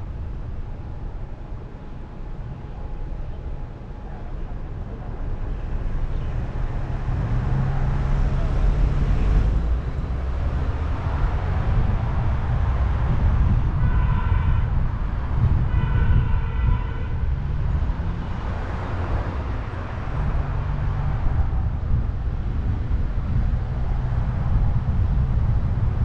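Car driving through city traffic, heard from a camera on the roof: steady low road rumble and wind noise. Two short pitched tones sound about two seconds apart near the middle.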